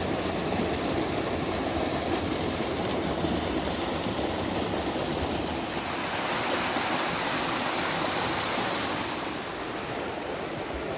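Steady rush of water from a waterfall and mountain stream, an even noise with no breaks.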